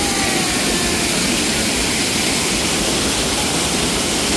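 Falling Branch Falls, a waterfall of about 20 to 25 feet, pouring into its pool as a steady, even rushing of water.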